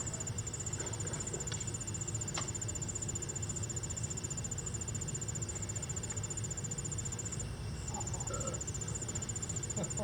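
An insect's fast, high, pulsed trill, steady but for a short break about seven and a half seconds in, over a low rumble.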